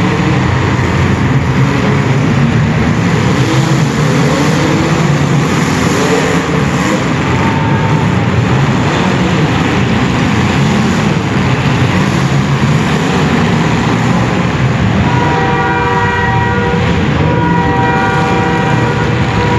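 Several compact demolition-derby cars' engines running and revving together in a loud, dense din. From about 15 seconds in, several horns honk over it at different pitches.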